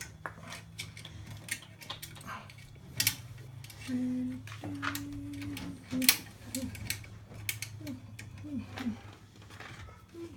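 Sharp small clicks and taps of tools and parts being handled during wiring work on boiler controls, the loudest about three and six seconds in, over a steady low hum. A few brief voice sounds come in between.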